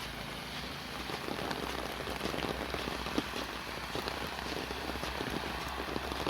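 Rain falling, with many separate drops pattering irregularly close by.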